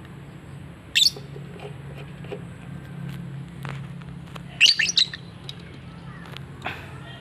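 Lovebird chirping and squawking: one sharp high-pitched call about a second in, then a quick run of several louder calls around the middle.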